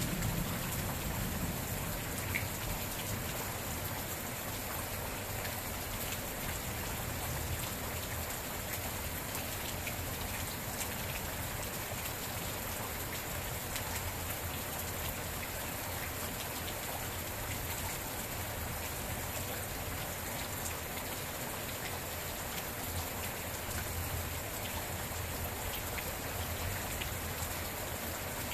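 Steady rain falling: an even hiss with scattered individual drop hits.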